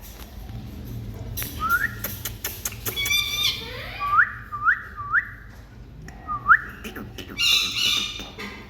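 Indian ringneck parrot giving about five short rising whistles, with two harsher squawking calls about three seconds in and near the end, among scattered clicks.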